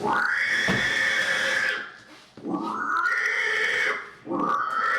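Loud, repeated pig squeals: three long shrill squeals, each opening with a quick upward slide in pitch and held for a second and a half or more.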